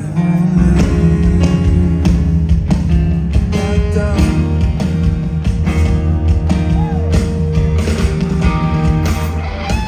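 Rock band music: electric guitar over bass and drums.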